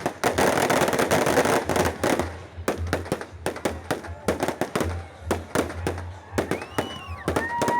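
Fireworks display: a dense crackling barrage that thins after about two seconds into many separate sharp bangs. Near the end come several whistling fireworks whose pitch arcs up and falls away.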